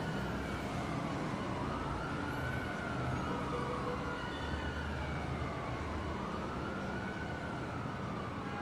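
Emergency vehicle siren wailing, its pitch slowly rising and falling about every four to five seconds, over a steady low rumble.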